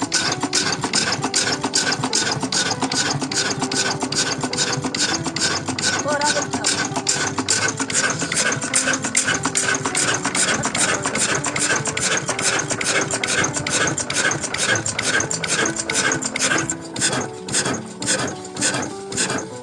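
An old water-pump engine running steadily with a rhythmic beat about five times a second, under background music.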